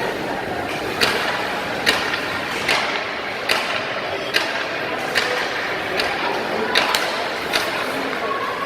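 Ice hockey arena sound: a steady wash of rink noise with sharp knocks at an even pace of a little more than one a second.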